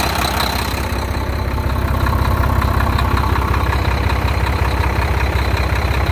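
Volvo semi truck's D13 diesel engine idling steadily, its low rumble growing louder from about a second in.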